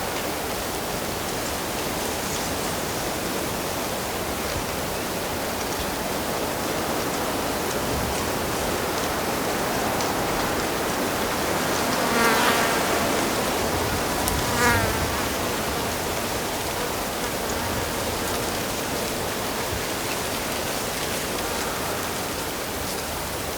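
Steady rush of flowing stream water. Twice, about twelve and fourteen and a half seconds in, a short buzz rises over it, like an insect flying close past.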